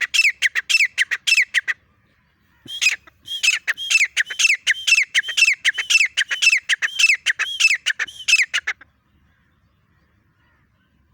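Grey francolin calling: a fast run of harsh, repeated notes, about four a second. They break off for about a second near the start, resume, and stop about nine seconds in.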